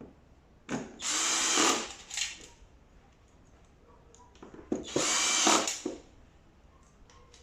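Power drill-driver running in two short bursts of about a second each, driving screws into the tumble dryer's panels, with small clicks and knocks around them.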